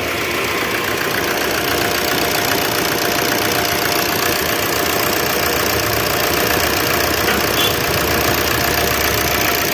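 Maruti Suzuki Swift Dzire diesel engine idling steadily, with the electric radiator fan running. The engine has just been overhauled and is on a long test run at operating temperature.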